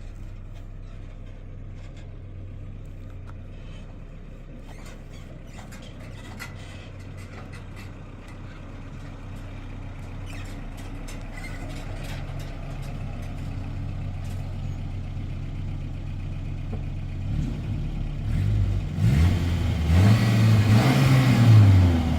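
A vehicle engine running steadily, then revving up and back down near the end.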